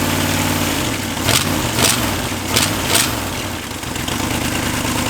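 Chevrolet 283 small-block V8 running on only four cylinders, one head removed. It idles, then is blipped up and down several times with four sharp pops near the peaks, and settles back to a steady idle.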